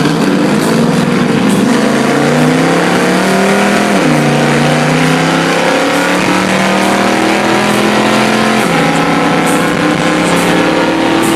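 Drag-racing engine at full throttle, its pitch climbing steadily through the gears. The pitch drops sharply at two upshifts, about four seconds in and again near nine seconds.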